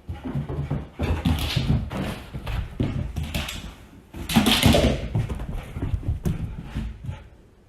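An animal calling, a run of loud noisy calls that are loudest about four and a half seconds in and die away near the end.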